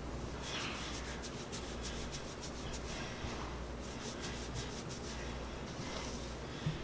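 Fingertips rubbing and scratching through oiled, tightly coiled hair in a scalp massage: soft, rapid, repeated scratchy strokes that come in runs.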